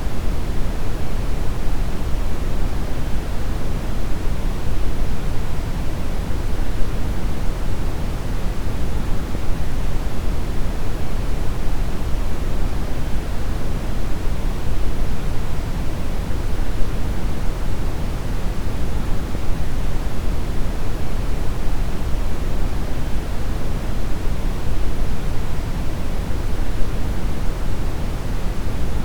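Steady brown noise: an even, deep rumbling hiss, strongest in the low end and fading toward the highs, with no change throughout.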